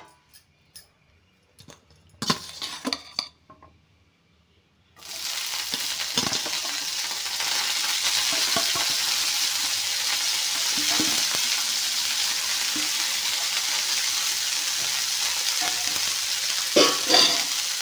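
A few light clicks of steel cookware, then about five seconds in a sudden sizzle as wet, parboiled turmeric cauliflower florets hit a hot frying pan, frying steadily after that. A couple of knocks come near the end.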